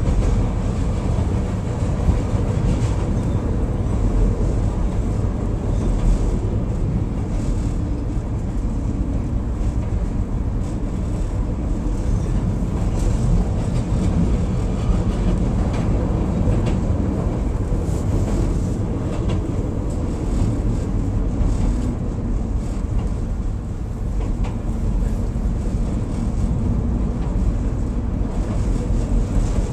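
Chicago Transit Authority Brown Line 'L' train heard from inside the front of the car as it pulls out of a station and runs along elevated track. A steady, loud rumble of wheels on rails, with occasional clicks.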